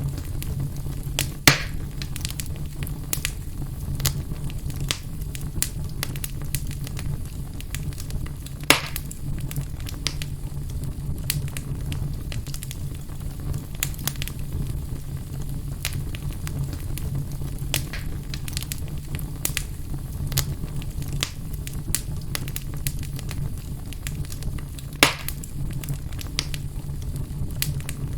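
Fire burning in a fireplace: a steady low rumble with frequent crackles and snaps, and three louder pops about a second and a half in, near nine seconds, and near the end.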